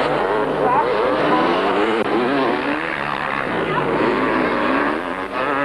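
Several two-stroke motocross bike engines revving hard during a race, their overlapping pitches rising and falling as the riders work the throttles.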